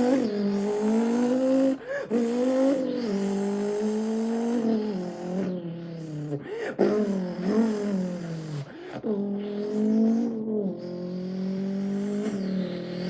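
A man's voice imitating the engine of a Zenvo TSR-S supercar: a steady, buzzing hum that rises and falls in pitch like revs climbing and dropping, broken off briefly every couple of seconds as if for gear changes.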